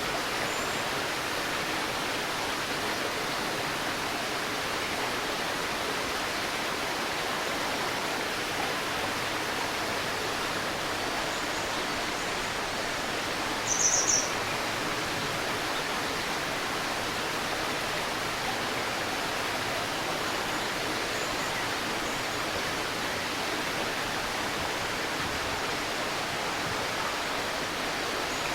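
A shallow river babbling steadily, with a bird giving a short burst of high chirps about halfway through and a few faint calls elsewhere.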